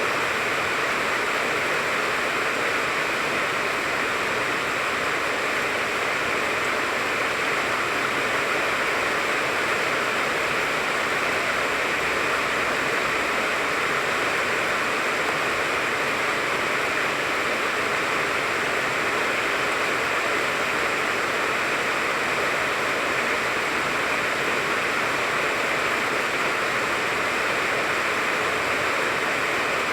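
Steady rain falling on a tangerine tree: an even, unbroken hiss of drops that does not change.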